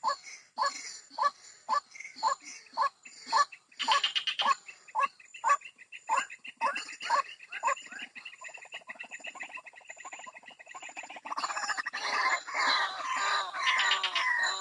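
White-breasted waterhen (ruak-ruak) calls, the sound used to lure the birds out of cover: a steady series of short falling notes about two a second, then from about eleven seconds in a louder, denser run of overlapping calls.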